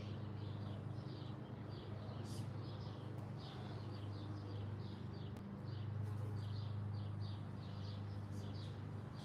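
Small birds chirping continuously, a quick run of short high chirps several times a second, over a steady low hum.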